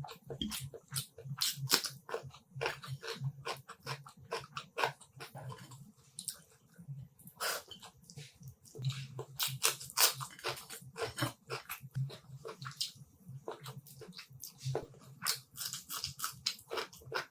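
Close-miked mukbang eating sounds: rapid wet chewing, lip smacking and crunchy clicks, many per second without a break.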